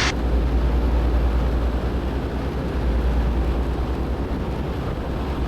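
Cessna 172N Skyhawk's four-cylinder Lycoming piston engine and propeller running steadily in flight, heard from inside the cabin as a constant low drone.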